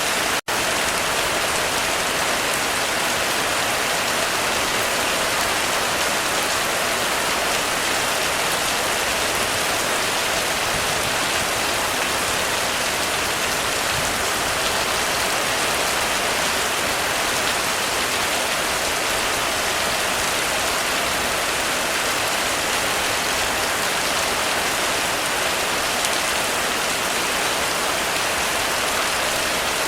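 Heavy rain falling steadily on a roof: a dense, even hiss with no thunder, broken by a split-second gap of silence about half a second in.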